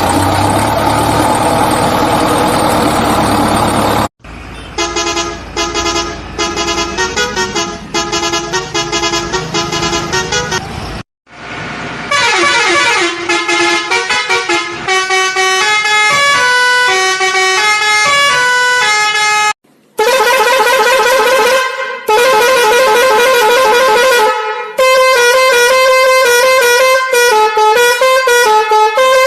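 Musical vehicle horn playing a run of short electronic melodies, note after note in quick steps, in several phrases with brief breaks between them.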